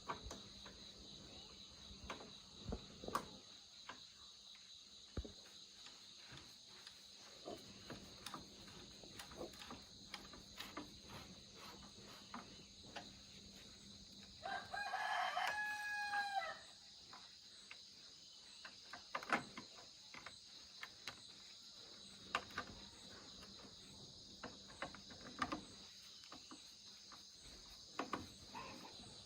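A rooster crows once, a pitched call about two seconds long, about halfway through. Under it runs a steady high hum, with scattered light clicks and knocks.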